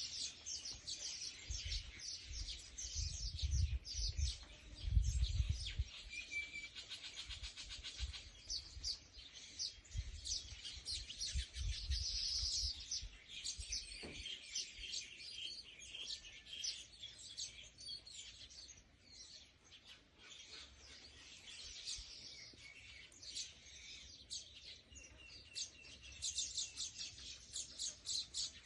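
Small birds chirping in quick, overlapping high calls, with a fast even trill about a third of the way in. Low rumbling noise runs underneath through the first half.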